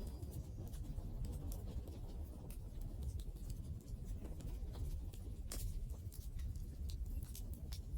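Wood fire burning: a steady low crackle with sharp pops scattered irregularly through it, the loudest about five and a half seconds in and near the end.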